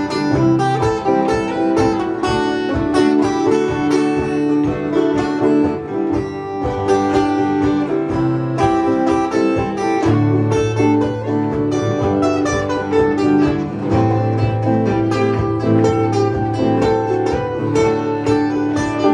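Instrumental break of a folk song: acoustic guitar with other plucked strings picking a quick melody over steady strummed chords and bass notes, with no singing.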